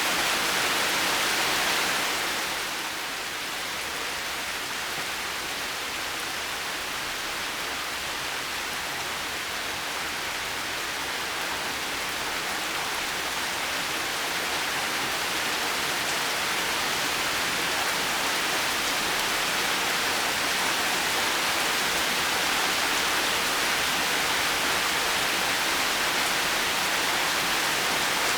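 Heavy rain falling steadily, an even hiss of many drops. It dips in level about two seconds in, then slowly swells back.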